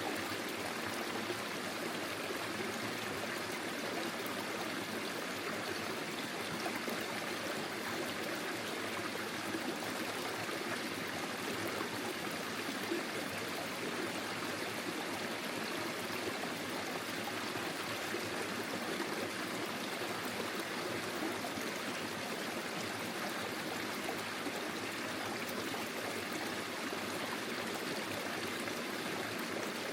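Small forest stream flowing and trickling over stones: a steady, even rush of water.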